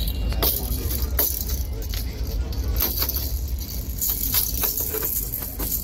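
Interior of a moving passenger train coach: a steady low rumble from the running train, with irregular jangling clicks and rattles over it.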